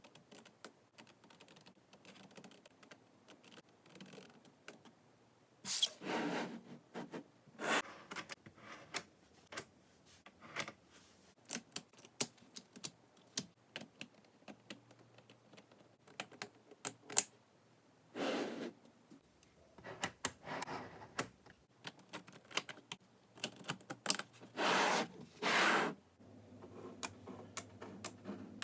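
Small neodymium magnetic balls clicking and snapping together in quick, irregular clicks, with several louder noisy bursts of about half a second in between.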